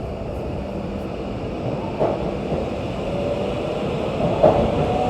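Train running noise heard from inside a passenger carriage: a steady low rumble that grows gradually louder.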